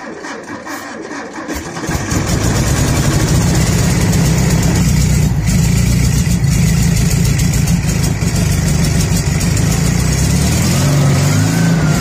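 1954 Volkswagen Beetle's air-cooled flat-four engine is cranked and catches about two seconds in. It then runs steadily, with a brief rise in revs near the end.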